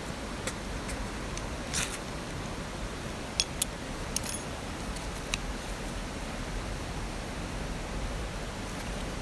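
Steady rushing hiss of water, with a handful of short light clicks and clinks of small gear being handled, the sharpest two close together about three and a half seconds in.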